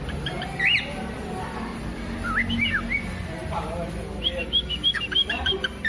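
Pet parrots chirping and whistling: a few short gliding whistle notes, then quick runs of repeated high chirps in the second half, over a low background rumble.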